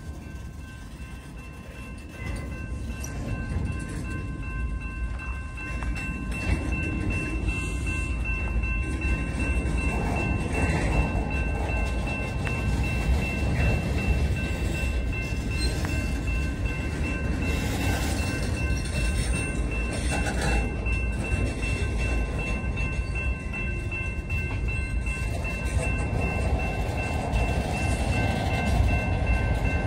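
Freight train of covered hopper cars rolling slowly through a grade crossing: a steady low rumble of wheels and cars that grows louder over the first several seconds, with a few steady high-pitched tones over it.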